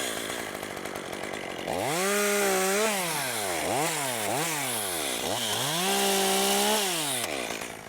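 Gas two-stroke chainsaw revved up and down several times, its engine speed dropping back between revs, with two longer stretches held at full throttle.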